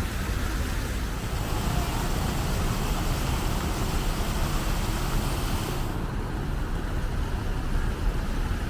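Steady road traffic noise, a low rumble with hiss above it; the hiss thins out abruptly about six seconds in.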